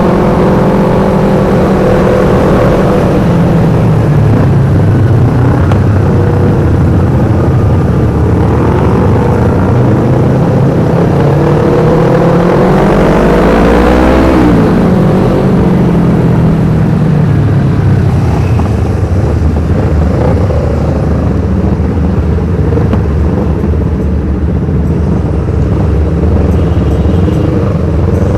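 Yamaha R25 parallel-twin engine running loud through an aftermarket Black Devils exhaust, its revs rising and falling, climbing to a peak about halfway through and then dropping back.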